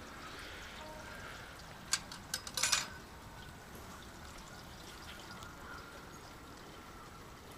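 Steady running or pouring water, with a short cluster of clicks and knocks about two to three seconds in.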